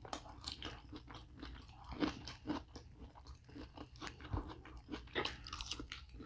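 Close-up chewing and biting of a soft bread roll: irregular wet smacks and small clicks of the mouth, with a louder bite about two seconds in and another past four seconds.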